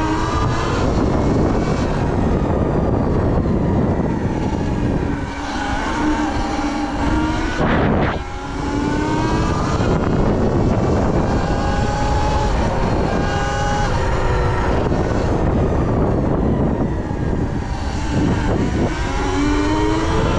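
Sur Ron electric dirt bike's motor whining while riding, its pitch rising and falling again and again as the throttle opens and eases off, over a constant rush of wind and tyre noise.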